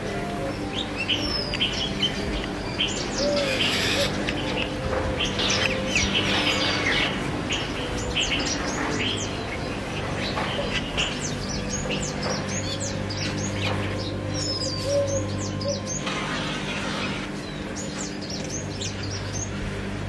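Small birds chirping and twittering, a dense run of short high chirps with many calls overlapping.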